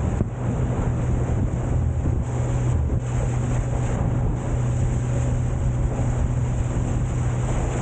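Motorboat engine running steadily under way, a constant low hum under wind buffeting the microphone and water rushing past the hull.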